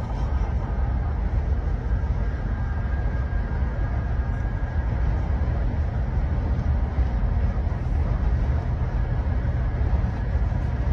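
Steady low rumble of a running vehicle, unbroken, with a faint hiss above it.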